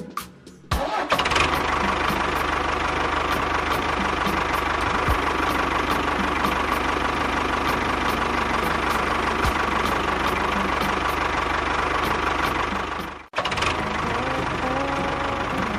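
Mini tractor's small engine running steadily, with a sudden brief break near the end before it carries on.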